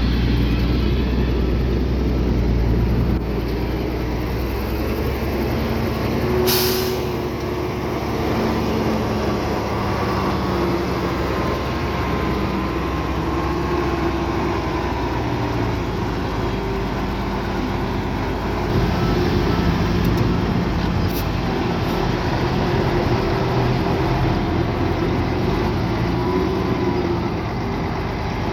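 Heavy diesel earthmoving machinery running steadily under load, its engine note wavering and shifting in level. About six and a half seconds in there is one short, sharp hiss of air.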